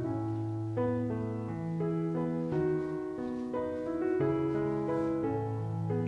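Background piano music, soft and slow, with sustained chords and gently changing notes.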